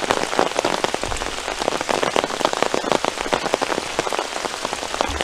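Heavy rain falling, with a dense run of close individual drop hits over the steady hiss.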